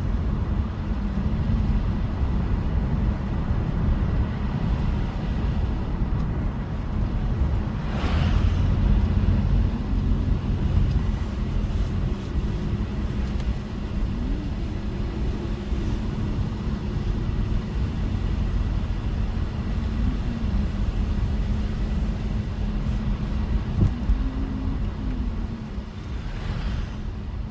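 Car driving on a snowy road: a steady low rumble of engine and tyre noise, with the engine's pitch rising and falling a little now and then. A short sharp noise cuts through about a third of the way in.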